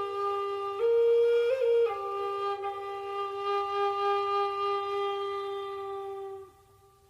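Background music: a single flute line playing slow, held notes, the last long note ending about six and a half seconds in.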